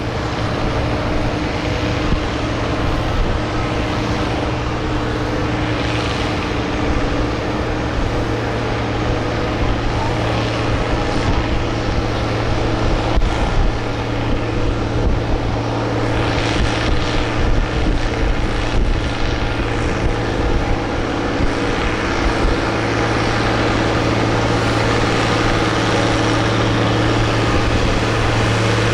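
Farm tractor engine running steadily and loudly, a constant deep drone with no clear change in pitch.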